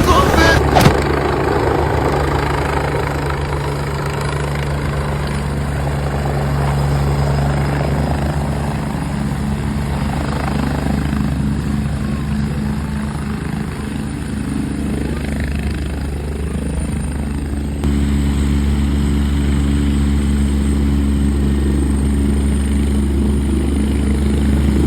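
Helicopter running steadily, with its rotor beating. There is a sharp click about a second in, and the sound steps up suddenly in loudness about eighteen seconds in.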